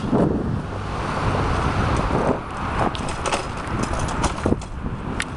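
Bicycle riding over a rough surface: a steady tyre rumble with frequent rattling clicks and knocks from the bike, and wind noise on the microphone.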